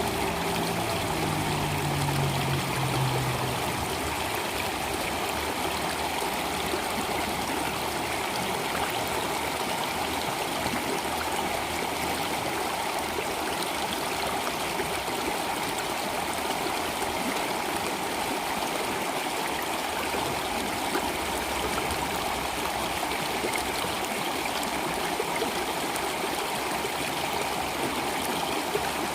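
Stream water flowing and trickling steadily. A low pitched tone dies away in the first three seconds.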